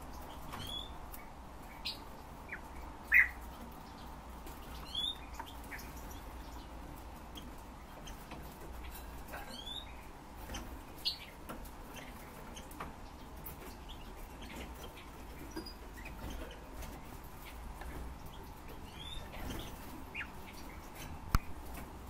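Cage birds giving scattered short chirps and quick rising call notes, one louder call about three seconds in, over a faint steady hum. A sharp click comes near the end.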